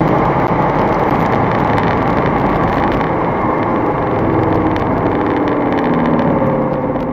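Audi RS3's turbocharged 2.5-litre five-cylinder driving under way, its engine note mixed with heavy road and wind noise. The engine pitch climbs a little in the last couple of seconds.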